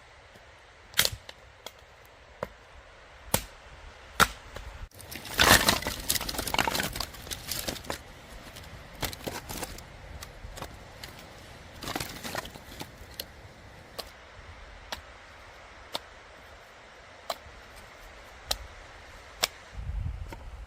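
Wood cracking and snapping: sharp single cracks at irregular intervals, with a longer spell of dense crackling about five seconds in.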